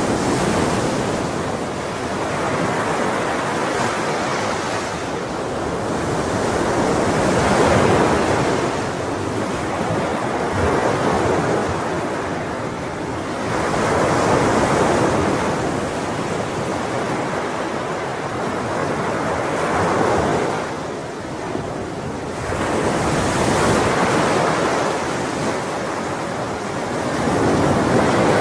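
Sea waves breaking on a shore, the surf swelling and easing every few seconds, with a wind-like hiss underneath.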